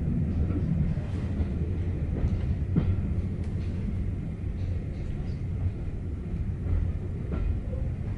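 Train running along the track: a steady low rumble with occasional sharp knocks from the wheels and carriage.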